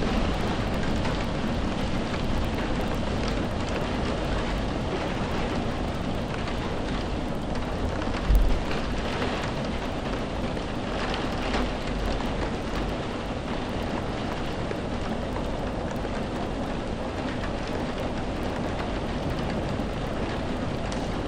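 Steady rain, with a brief low thump about eight seconds in.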